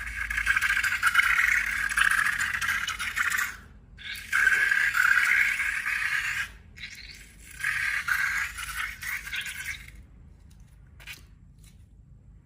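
Three long scraping, rattling passes of a few seconds each, from slime-making materials being handled, followed by a faint click near the end.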